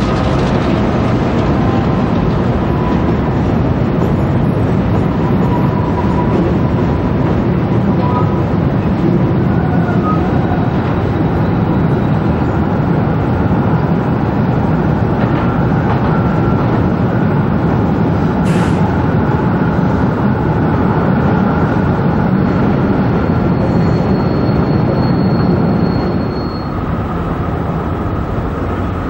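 Freight train of open wagons rolling steadily across a railway viaduct: a continuous rumble and rattle of wheels on rails, with one short high squeal about eighteen seconds in. The sound drops to a quieter level shortly before the end.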